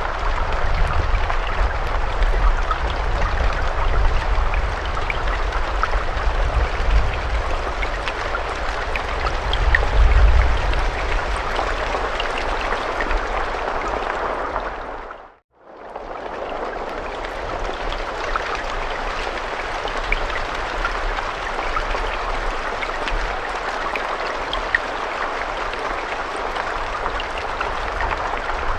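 Steady rain, an even hiss with single drops ticking through it and a low rumble under it in the first half. About halfway through it fades out to silence for a moment and fades straight back in.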